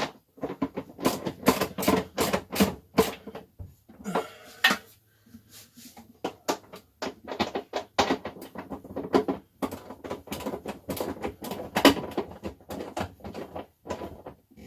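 Socket ratchet clicking in quick runs of clicks, stroke after stroke, as nuts on the toilet's hold-down bolts are tightened.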